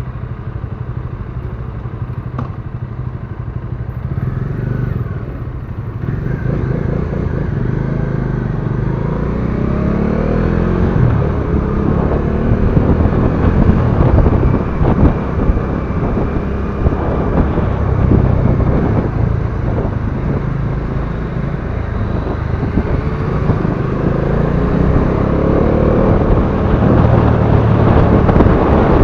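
Bajaj Dominar 400's single-cylinder engine running under way, its pitch rising and falling repeatedly as it revs up and down. It gets louder about six seconds in.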